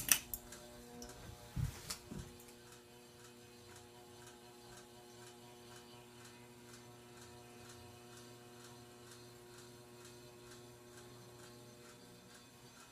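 42-inch Aloha Breeze hugger ceiling fan running on medium: a steady electric motor hum with a regular light ticking about three times a second. There are a couple of knocks in the first two seconds as the speed changes.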